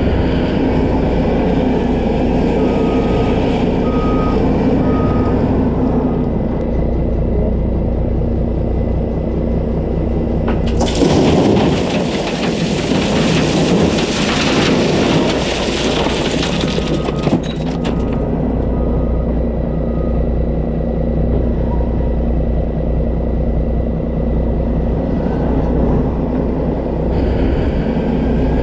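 Diesel engine of heavy earthmoving equipment running steadily, with short runs of a backup alarm beeping twice. About eleven seconds in, a loud rushing, scraping noise lasts about six seconds.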